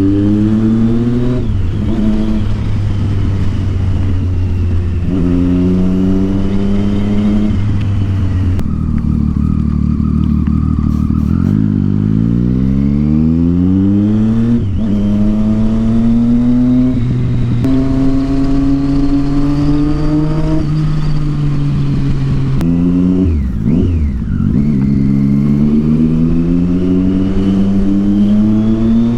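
Triumph Street Triple 675's inline three-cylinder engine through a loud Yoshimura aftermarket exhaust, accelerating through the gears. The pitch climbs and then drops at each upshift, several times over, with a stretch of steady low running in the middle and quick throttle blips about two-thirds of the way through.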